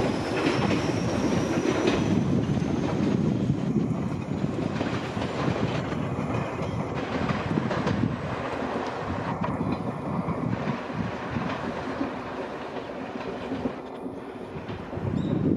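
Two-car electric commuter train pulling away, its wheels clacking over rail joints and points over a low rumble. The sound slowly fades as the train moves off.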